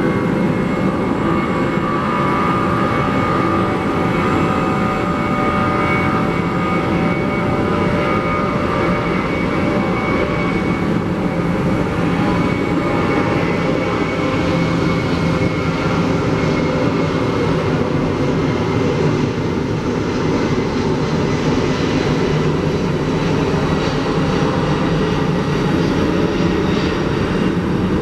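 Jet airliner engines running, a loud steady rumble with a high whine held throughout.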